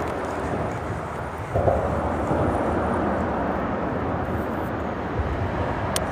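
Steady rumble of freeway traffic on the bridge above, growing louder about a second and a half in as a vehicle passes.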